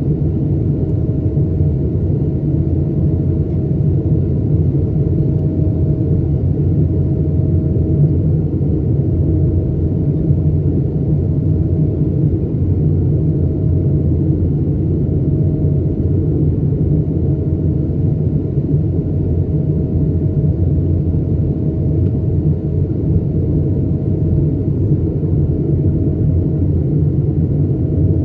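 Steady rumble of cabin noise aboard an Airbus A220-300, from its Pratt & Whitney PW1500G geared turbofans and the airflow. A faint steady hum sits over it, and nothing changes throughout.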